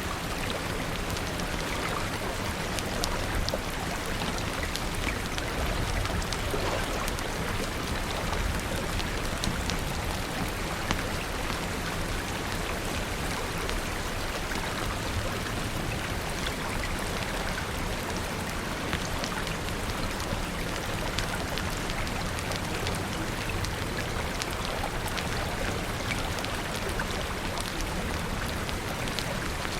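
Steady rain falling, with a low rush of running water beneath it and many scattered sharp ticks throughout.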